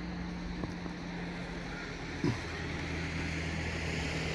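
Motor vehicle engine running with a steady low hum, growing slowly louder, with a short falling tone about halfway through.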